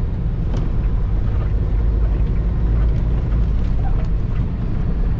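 Semi truck's diesel engine running, a steady low rumble with a few faint clicks.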